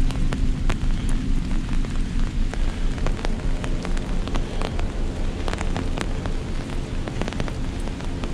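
Heavy rain falling, with many individual drops ticking sharply close by, over a low, rhythmically pulsing rumble.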